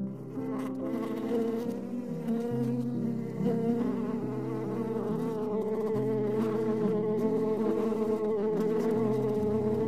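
A flying insect buzzing steadily, a wavering hum that holds through the whole stretch.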